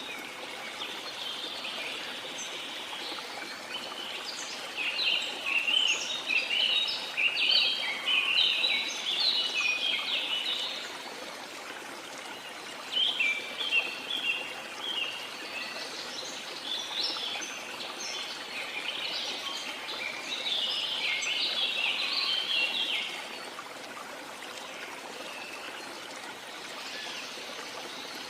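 Small songbirds singing in two long spells of quick, chirping notes over a steady rush of sea water.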